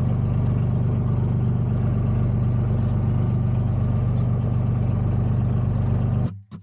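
Boat engine running steadily at a constant pitch, with a hiss of wind and water over it. It cuts off abruptly near the end.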